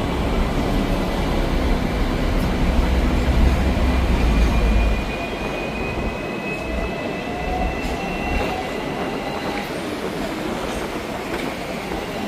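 Hong Kong double-decker electric tram running on its rails: a steady rumble, heavier for the first five seconds or so, with a thin high whine that slowly rises in pitch.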